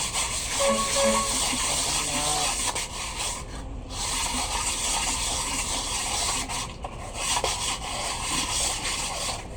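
Truck engine cylinder head being resurfaced by hand: its face is rubbed back and forth on an abrasive in a steady gritty scrape. The hand lapping whitens the face so any crack or uneven spot shows up.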